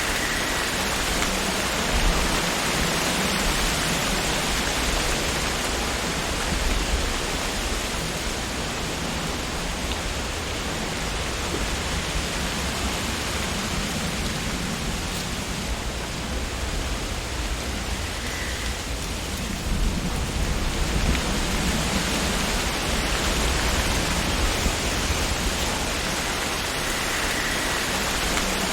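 Wind blowing through tree leaves: a steady rustling hiss over a low rumble. It eases somewhat in the middle and swells again about two-thirds of the way through.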